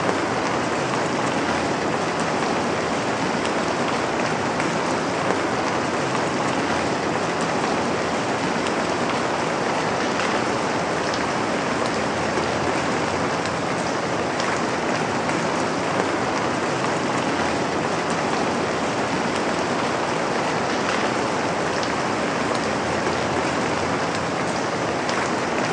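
Steady rain falling on a surface, an even hiss of many drops with faint scattered individual drop ticks.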